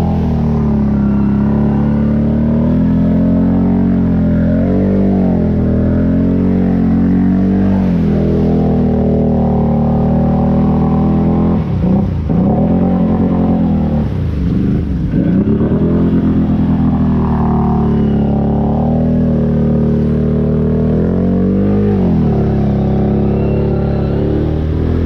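ATV engine running as it is ridden, its pitch rising and falling with the throttle. Twice around the middle it drops low and climbs back up.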